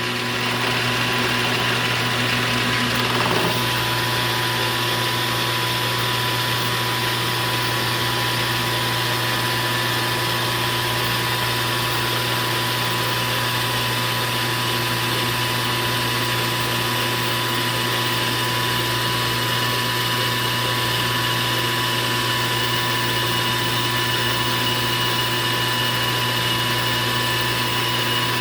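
Metalworking machine tool running steadily through a cut in aluminum stock, a constant motor hum with steady whining tones above it.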